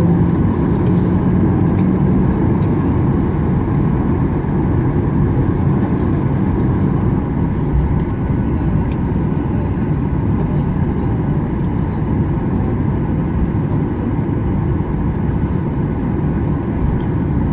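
Boeing 737-800's engine and airflow noise heard inside the passenger cabin: a dense, steady noise heaviest in the low range, easing off slightly over the first few seconds and then holding level.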